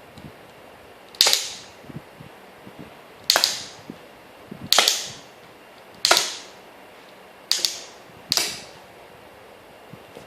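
Semi-automatic rubber-band pistol built from wooden chopsticks firing six shots, each a sudden sharp crack as the mechanism releases a band, spaced one to two seconds apart, with faint clicks between shots.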